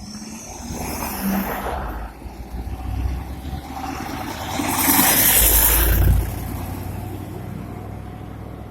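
Road traffic: motor vehicles passing close by, with a low engine rumble and tyre noise that swell and fade. The loudest pass comes about five to six seconds in.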